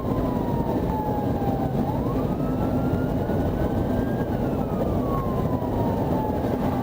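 Police siren on a slow wail: the pitch falls, rises again about two seconds in, then falls once more toward the end. Under it runs a steady, loud vehicle rumble.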